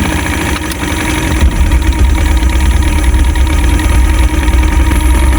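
Fishing boat's motor running with a steady low rumble, getting a little louder about a second and a half in.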